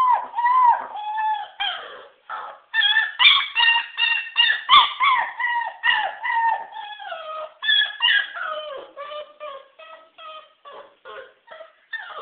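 Labrador-mix puppy whining and yelping in a rapid run of short, high cries, many falling in pitch. The cries grow shorter and fainter in the last few seconds.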